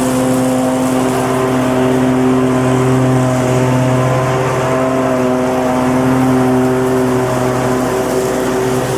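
Petrol lawnmower engine running steadily under load, a loud continuous drone with slight wavering in pitch.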